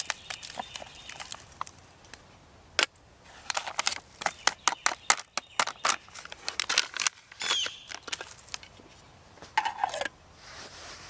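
A run of irregular sharp clicks and taps, bunched most thickly in the middle.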